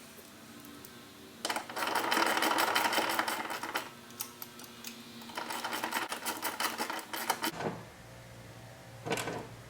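Ratchet wrench clicking rapidly in two runs of about two seconds each as a bolt is turned, then a brief scrape near the end.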